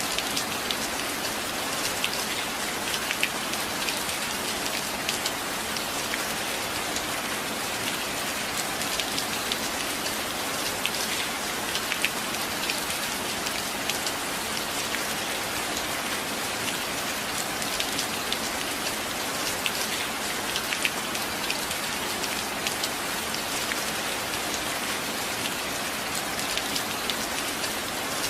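Steady rain, with the sharp ticks of single drops hitting a hard surface scattered through an even hiss.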